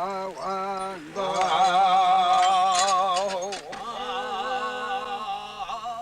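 A voice singing a Nganasan shamanic incantation in long, wavering held notes, with a short break about a second in and a few sharp clicks around the middle.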